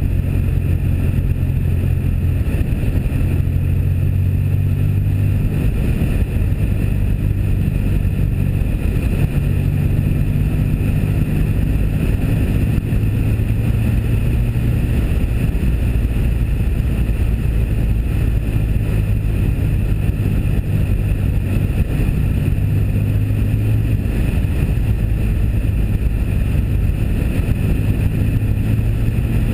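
Steady drone of a 1997 Pontiac Firebird's 3.8-litre V6 engine and exhaust cruising at speed, its pitch shifting slightly a few times, with wind buffeting the camera microphone through a cotton cover.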